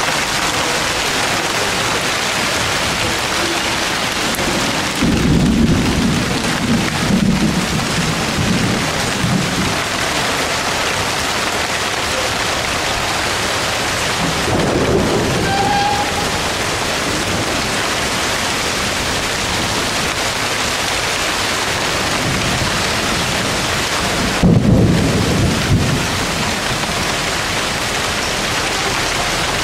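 Heavy tropical downpour: a loud, steady hiss of rain pouring onto pavement, cars and foliage. It is broken three times by deep rumbles, about five, fifteen and twenty-five seconds in.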